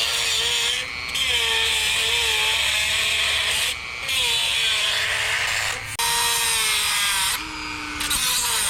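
A high-speed rotary tool (Dremel) grinding into a steel weld in several runs of a second or more, each broken by a brief pause. The motor's whine wavers in pitch as the bit loads up in the cut.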